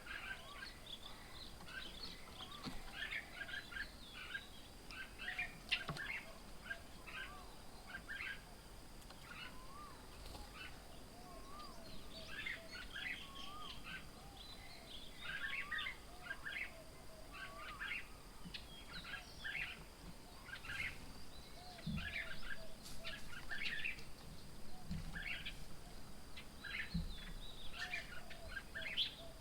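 Wild birds chirping and twittering in a busy, continuous chorus, with a lower warbling call repeating underneath.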